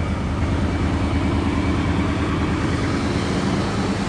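1992 Chevrolet Caprice wagon's V8 idling steadily with an even low pulse, still warming up after a cold start in below-zero cold.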